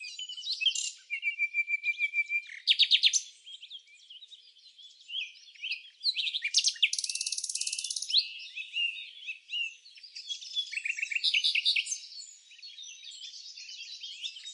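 Several songbirds singing and chirping at once: fast trills and runs of quick repeated notes, overlapping at different pitches. The loudest trills come about three seconds in and again around seven seconds in.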